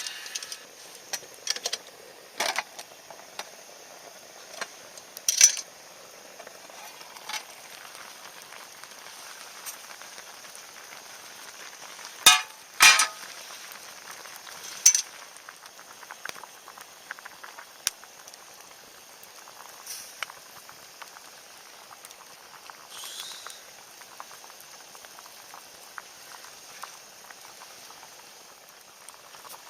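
Wood campfire burning with a steady hiss and scattered sharp crackling pops, two of the loudest close together about twelve seconds in.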